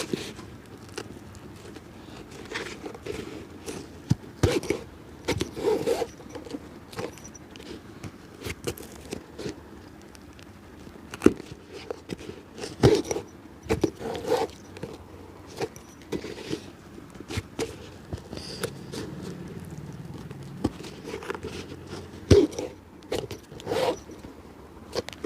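A cobbler's hand tools working on a shoe: irregular sharp taps and clicks mixed with short scrapes, unevenly spaced, over a steady low background hum.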